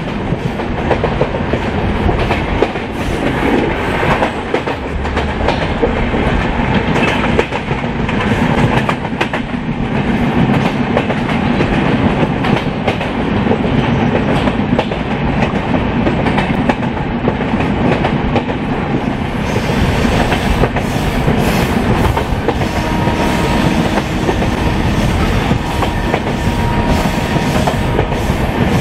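Shatabdi Express passenger coach running at speed, heard from inside: a steady rumble of the running gear with the wheels clicking over rail joints. From about two-thirds of the way in, more hiss joins the rumble.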